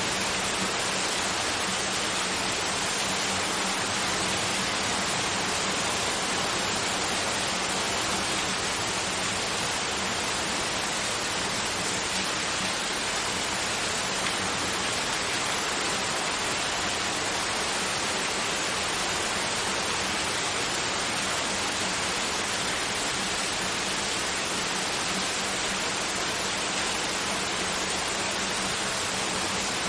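Steady, unbroken noise like a white-noise track, spread evenly across the mid and high frequencies, with a faint low hum underneath.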